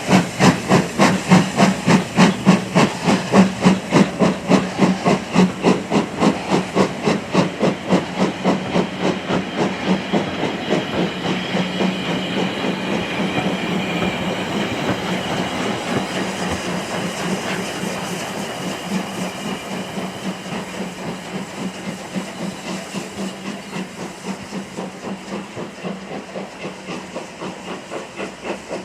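Steam locomotive exhaust beating at about two a second. Mid-way the beats run together into a steady hiss, then come through again, growing fainter as the engine moves away.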